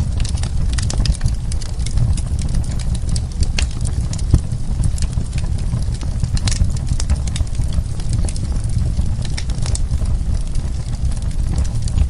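Wood burning in a fireplace: irregular crackles and sharp pops over a steady low rumble of the flames, with one louder pop about four seconds in.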